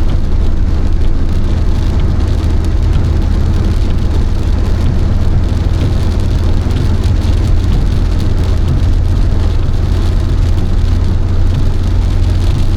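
A car driving, heard from inside the cabin: a steady low road and engine drone with rain hitting the car.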